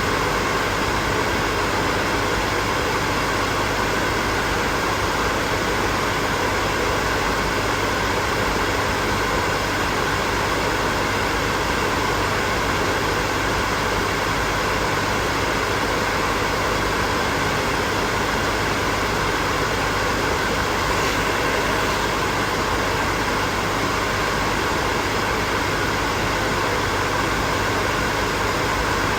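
Hair dryer running steadily: an even rush of blown air with a faint steady motor hum underneath.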